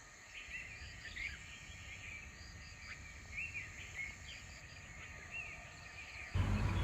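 Birds chirping outdoors: scattered short whistled notes that rise and fall, with a faint repeated high chirping behind them. About six seconds in, the sound cuts suddenly to louder music.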